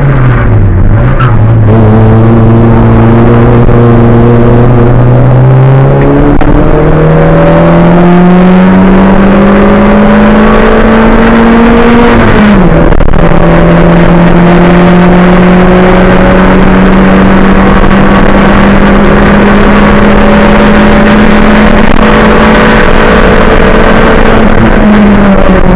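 Race car's engine heard from inside the cockpit, driven hard and loud. The revs climb steadily for several seconds, drop sharply about halfway through at a gear change, then hold high and steady, falling away again near the end.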